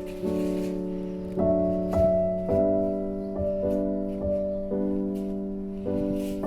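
Background piano music: slow, sustained chords, with new notes struck about every half second to a second.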